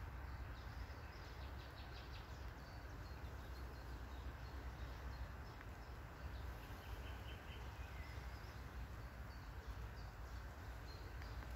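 Faint distant birdsong, short high chirps in small runs, over a steady low rumble of outdoor background noise.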